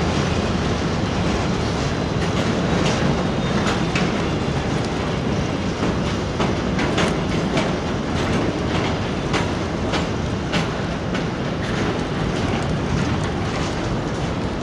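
Container wagons of a freight train rolling past: a steady rumble of wheels on rail, with irregular sharp clicks as the wheels cross the rail joints.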